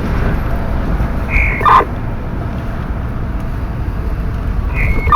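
Car cabin noise of a vehicle driving along slowly: a steady low engine and road rumble. Twice, about three and a half seconds apart, a short high beep is followed by a brief crackle.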